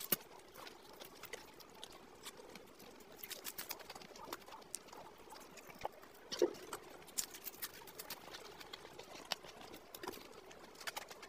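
Close-miked chewing of deep-fried samosas: crisp crackles and clicks of the pastry shell being bitten and chewed. About six seconds in comes one louder gulp as a drink is swallowed from a glass.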